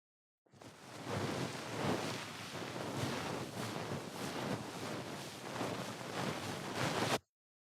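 Ear pick scraping and rubbing inside a microphone's ear, heard very close: a dense scratchy rustle made of repeated strokes. It starts about half a second in and cuts off abruptly near the end.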